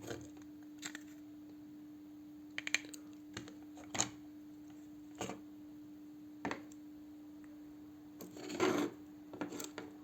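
Short clicks and scrapes at irregular intervals, about eight in all, the longest a rubbing scrape near the end, over a steady low hum.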